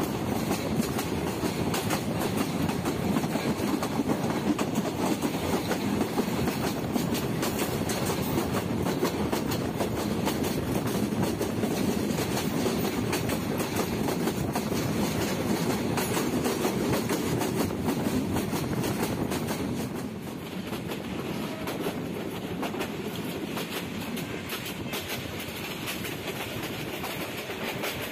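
Bangladesh Railway intercity passenger train running at speed, heard from an open carriage window: a steady rumble of wheels on the rails with clickety-clack over the rail joints and wind. It grows a little quieter about twenty seconds in.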